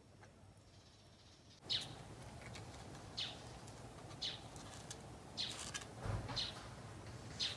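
Short, high bird chirps, each a quick falling note, repeating about once a second over a steady background hiss that comes in about two seconds in. A low thump sounds a little past the middle.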